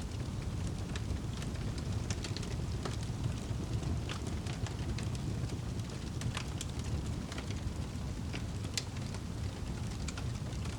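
Wood fire crackling in a fireplace: a steady low rumble of burning with frequent irregular crackles and sharp pops, a few of them louder.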